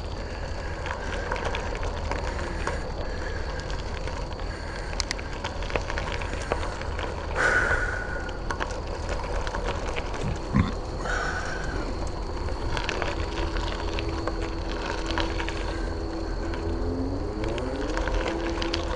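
Bicycle ridden along a wet, muddy unpaved trail: steady tyre and wind rumble with scattered clicks and rattles. A brief squeal comes about seven seconds in, and a steady hum that shifts in pitch runs through the last several seconds.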